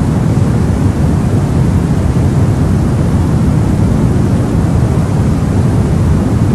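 Steady white noise played for a baby's sleep: an even, unbroken rush with most of its weight in the deep low end, like a rumble.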